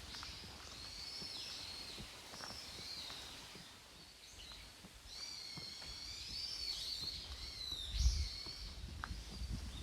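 Wild birds singing: several overlapping warbling songs, busiest from about five seconds in. A low rumble joins near the end.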